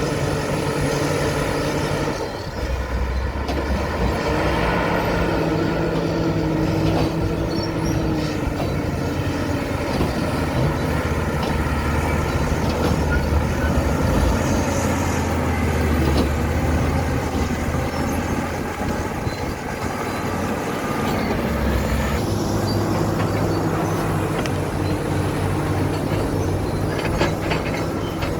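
Caterpillar D7 bulldozer's diesel engine running steadily, its note shifting about two seconds in and again near twenty-two seconds, with rattling near the end.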